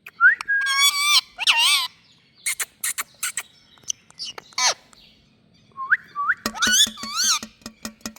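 Rose-ringed (Indian ringneck) parakeet calling: short gliding and wavering whistled squawks with sharp clicks in between, quieter for a moment in the middle, then a quick series of calls near the end.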